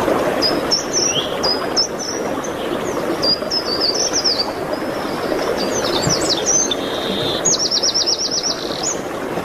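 Songbirds singing high, quick chirping phrases, with a fast, even trill of about ten notes near the end, over a steady rushing background noise.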